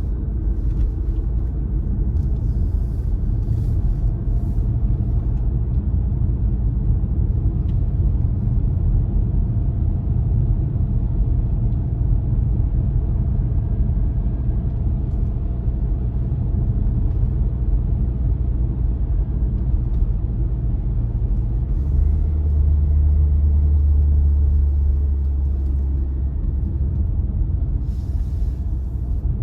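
A car being driven at a steady pace: a constant low rumble of tyres on the road and the engine. The low rumble swells into a louder drone for a few seconds near the end, then settles back.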